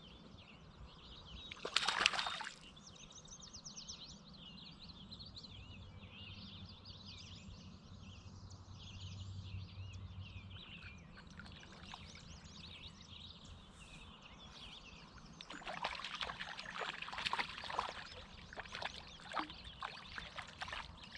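Birds singing in a busy chorus of quick high chirps, with a short loud burst of noise about two seconds in and irregular water splashing and sloshing in the last several seconds.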